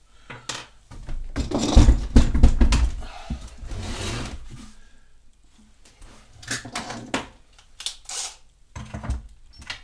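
Clicks, knocks and thuds of the plastic handle and its latch being worked off a Ryobi pressure washer's housing, the loudest knocks bunched about two seconds in, then scattered sharp clicks.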